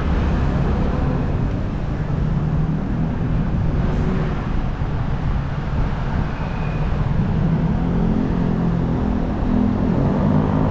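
Steady rumble of road traffic and running vehicle engines in a busy street.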